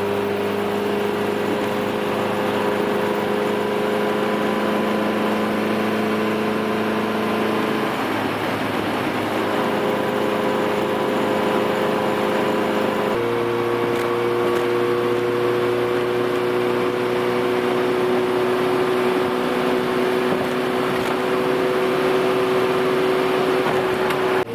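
Turbocharged Honda Civic four-cylinder engine running steadily under light load, its pitch creeping slowly upward, with abrupt changes in engine note about 8 and 13 seconds in.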